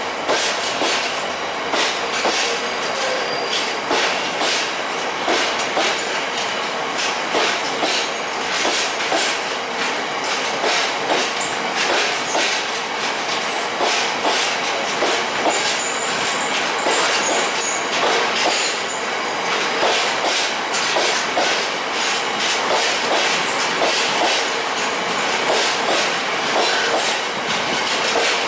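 Train wheels running over the rails with a steady, rapid clickety-clack of rail joints and a brief faint high wheel squeal about two-thirds of the way through.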